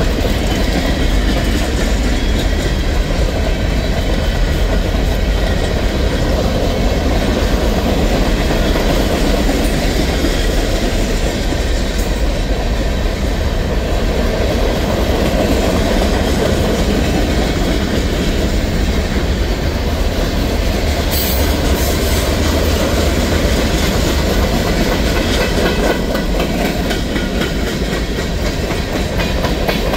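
Freight cars of a CSX manifest train rolling past close by: boxcars and covered hoppers with their steel wheels running on the rails, a loud, steady rolling noise.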